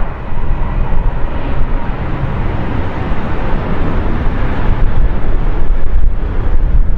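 Jet airliner engine noise: a loud, broad rumble, heaviest in the low end, that grows somewhat louder toward the end.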